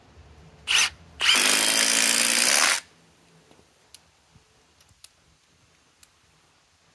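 Milwaukee M18 Fuel Gen 4 impact driver driving a Grip-Rite screw: a short blip of the trigger, then about a second and a half of steady running under load that stops sharply. A few light clicks follow.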